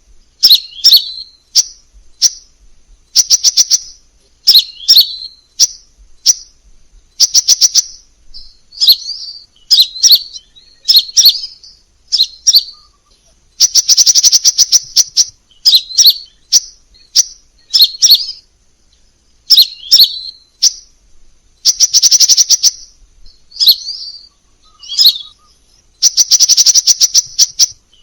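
Crimson sunbird singing: high, fast ticking trills alternating with short, sharp chirps, in phrases roughly a second apart. Three of the trills run longer, a second or more each.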